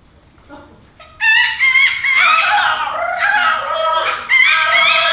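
Several human voices imitating wild turkey calls together: after a near-silent second, a rhythmic run of short, repeated rising-and-falling notes.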